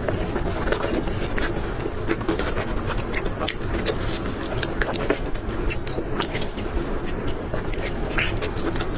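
Eating sounds: chewing and mouth noises, heard as many short irregular clicks, over a steady background noise.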